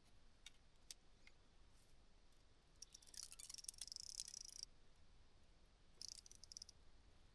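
Near silence, with a few faint clicks and two brief, faint, high rustles, one about three seconds in and a shorter one about six seconds in.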